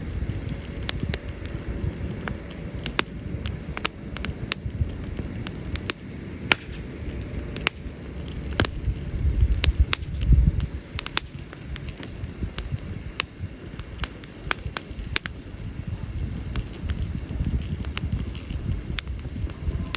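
Wood campfire crackling, with irregular sharp pops and snaps from the burning logs over a steady low rumble that swells about halfway through.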